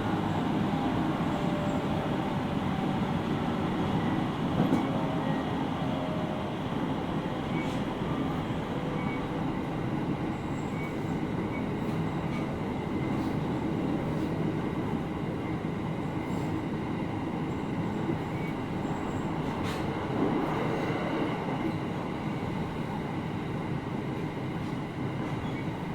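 Interior running noise of a JR East 701-series 5500-subseries electric train car (KuMoHa 701-5506) under way: a steady rumble of wheels on rails, with a few sharp clicks.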